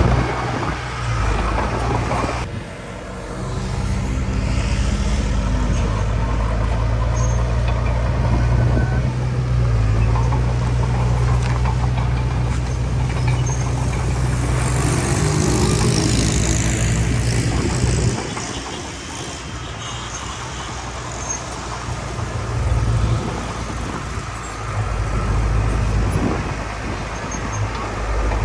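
Heavy diesel engines of earthmoving machinery at work, a bulldozer and dump trucks, running with a deep, steady engine tone. The engine note drops off briefly about two and a half seconds in and again around eighteen seconds, then picks back up as the machines work under load.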